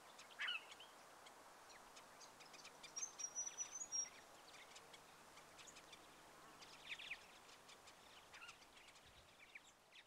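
Faint scattered bird chirps and short calls, with a high thin whistle about three seconds in, over a faint steady hiss.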